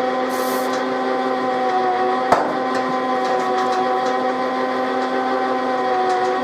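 Metal lathe running steadily under power, a constant even hum with several level tones from its motor and gearing. A single sharp click a little over two seconds in.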